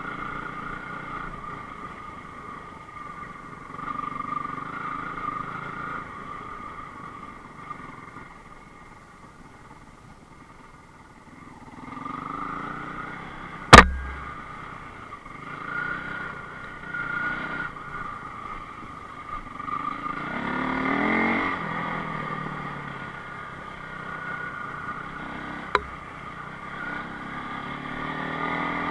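Enduro motorcycle engine running, its pitch rising and falling as the throttle is opened and closed. A sharp knock is heard about 14 seconds in, and a smaller one near the end.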